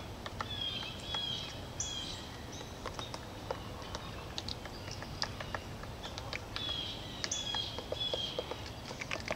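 A male downy woodpecker tapping at wood in irregular sharp taps, with short high bird chirps repeating through it over steady low outdoor background noise.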